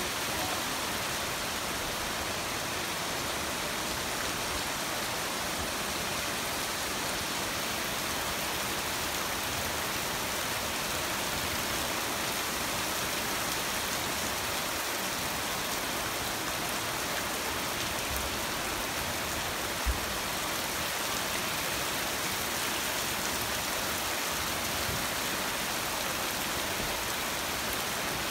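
Heavy rain falling steadily: a dense, even hiss of drops. About two-thirds of the way through there is one brief low thump.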